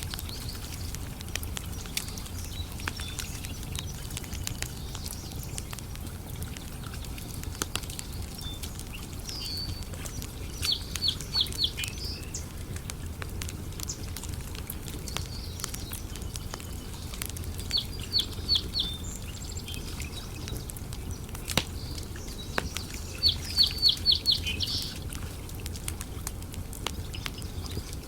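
Wood campfire crackling with scattered pops over a low, steady rumble. A bird calls three times, each call a quick run of four to six high notes, about 11, 18 and 24 seconds in.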